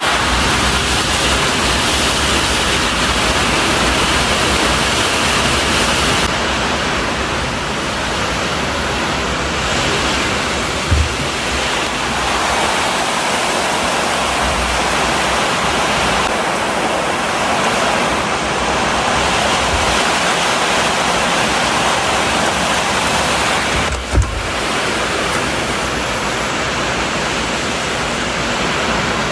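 Strong wind blowing with rain, a dense steady noise that swells and eases. Two brief low thumps come about a third of the way in and again about four-fifths in.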